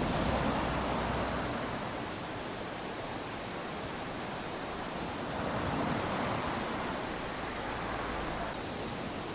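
Small waves washing up onto a sandy beach in a steady hiss of surf, swelling twice: once at the start and again about six seconds in.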